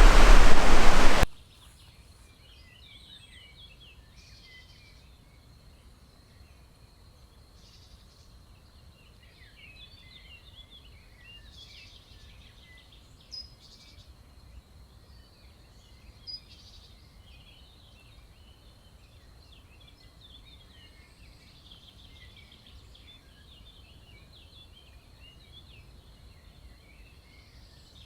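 Loud rushing water, like surf, cuts off abruptly about a second in. Faint forest birdsong follows: many small birds chirping and twittering high-pitched over a thin steady high tone, with two slightly louder sharp notes around the middle.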